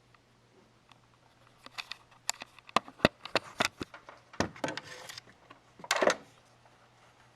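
A quick run of sharp clicks and knocks, handling noise, starting about a second and a half in and stopping about six seconds in. No engine is running.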